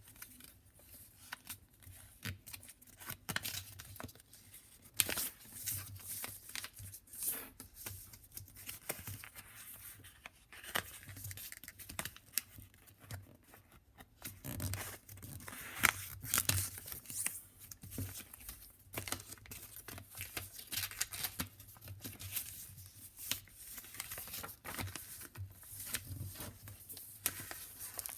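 A sheet of paper being handled, folded and creased: irregular rustling and crinkling with sharp crackles, and a faint low hum underneath.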